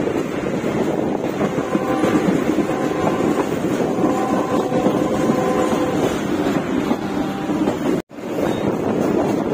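Passenger train running along the track, heard from an open coach window: a steady rumble of wheels on rail mixed with wind rushing over the microphone, with a faint high whine that comes and goes in the middle. The sound cuts out for an instant about eight seconds in.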